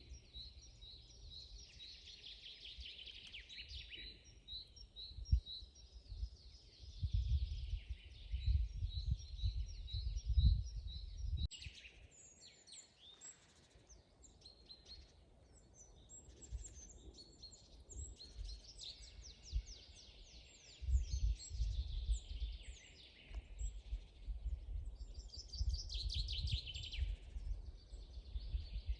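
Several songbirds singing at once in woodland, with quick repeated notes and trills overlapping. A low rumbling noise comes and goes underneath, loudest about a quarter of the way in and again through the last third.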